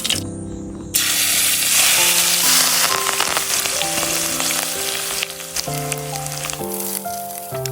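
Food frying and sizzling in hot oil in a pan, the sizzle starting suddenly about a second in, over background music of held notes.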